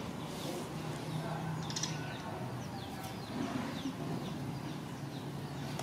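Birds chirping in many short, quick falling calls, one after another, over a low steady hum.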